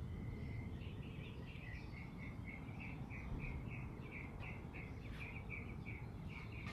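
A small bird faintly chirping over and over, about three short notes a second, over a low outdoor rumble.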